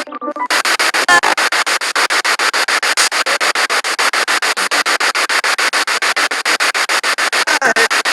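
Spirit box radio sweeping through stations: hissing static chopped into rapid, even pulses several times a second, with brief snatches of broadcast sound caught near the start, about a second in and near the end.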